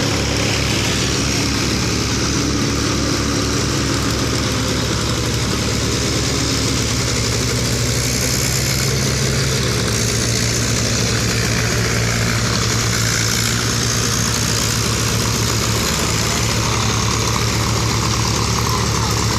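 Tractor's diesel engine running steadily, its pitch stepping up slightly about halfway through.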